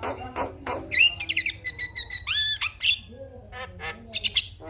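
Javan myna singing: a rapid harsh chatter, then clear whistled notes, some held level and some arching, from about a second in, and a further burst of chatter and short notes near the end.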